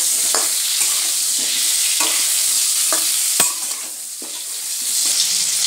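Potato pieces sizzling in hot mustard oil in a steel kadai while a metal spatula stirs them, scraping and knocking against the pan several times. The sharpest knock comes about three and a half seconds in, and the sizzle dips for a moment after it.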